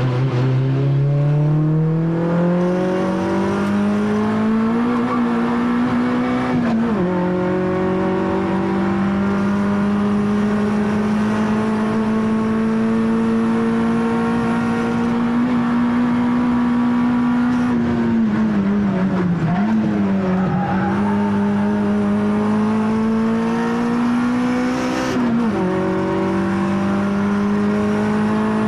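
Peugeot 106 Rallye race car's four-cylinder engine under hard throttle, heard from inside the cabin. The revs climb and drop sharply with an upshift about seven seconds in, then hold steady for a long stretch. They dip twice around twenty seconds, climb again, drop with another upshift about twenty-five seconds in, and fall away near the end.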